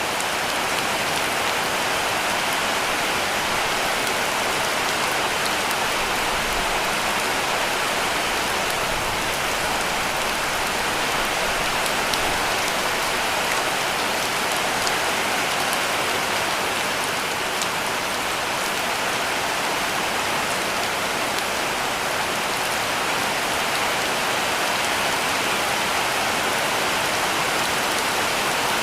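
Heavy rain falling steadily on a cabin roof: a dense, even hiss with scattered ticks of single drops.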